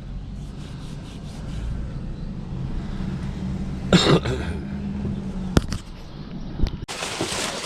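Vehicle engine running with a steady low rumble. A short loud sound comes about four seconds in, a single click a second later, and a sudden burst of loud noise near the end.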